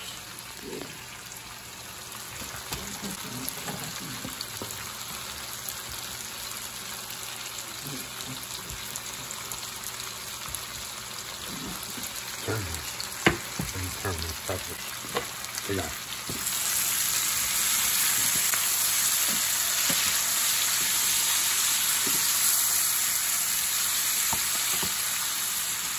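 Sweet peppers and onions sizzling in a pot, a steady frying hiss that gets louder about two-thirds of the way in. A few light knocks and one sharp click come about halfway through.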